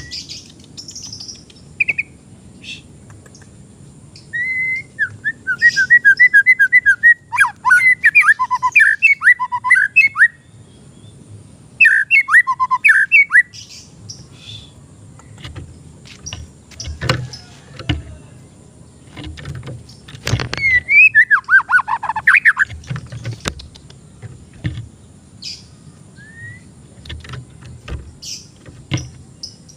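White-rumped shama (murai batu) singing in three bursts of rapid, repeated whistled notes, with short calls and a few soft knocks between the phrases.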